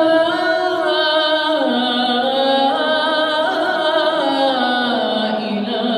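A man's voice chanting the Islamic call to prayer (adhan), holding one long ornamented note between "ashhadu an la" and "ilaha". The melody steps up and down in pitch several times without a break.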